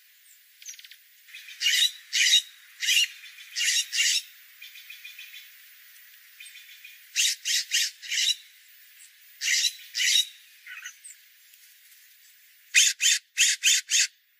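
Bird giving short, harsh, high-pitched calls, mostly in pairs and quick runs, ending with a fast run of four calls.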